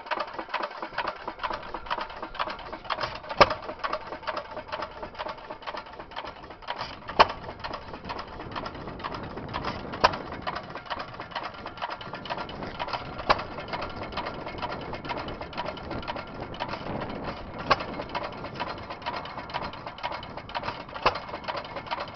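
1916 Stover Y hit-and-miss gas engine running on battery-and-coil ignition. It fires with a sharp bang six times, every three to four seconds, and the fast clatter of its running gear goes on steadily between the firings.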